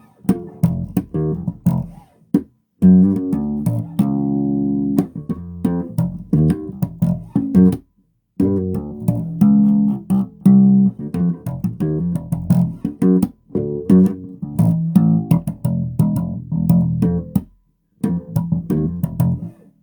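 Electric bass guitar played through an amplifier: a run of plucked low notes, with one note held for about a second and short breaks in between.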